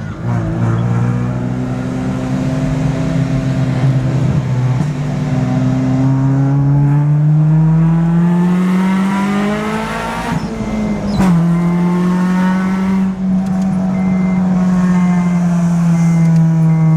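Car engine pulling under steady acceleration, its pitch climbing for about ten seconds. The pitch drops sharply at an upshift about eleven seconds in, then the engine settles into a cruise with the pitch slowly easing down.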